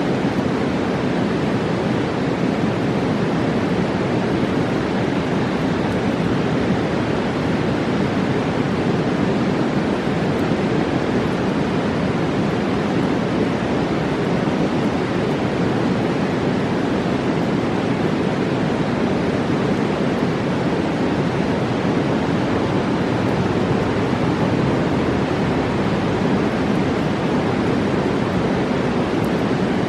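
A mountain river rushing in a loud, steady, unbroken roar of water.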